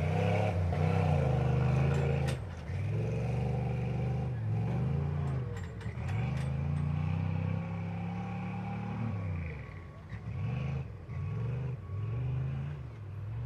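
Off-road truck engine revving hard and easing off over and over, its pitch rising and falling every second or two.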